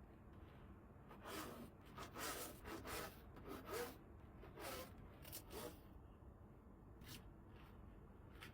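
A run of short, quiet scraping strokes for a few seconds, then two more near the end.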